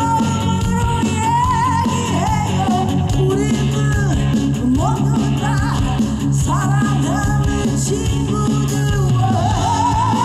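Live band music in a rock style: a lead melody that slides between notes over a steady bass and drums.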